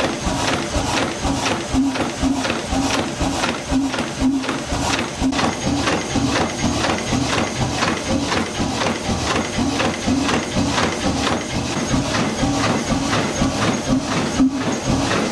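Old marine engine running steadily, with an even rhythm of knocks and a pulsing hum.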